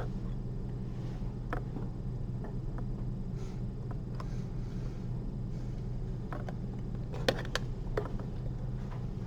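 Steady low hum of the room with a few faint, sharp clicks of surgical instruments handled on the model, a cluster of them near the end.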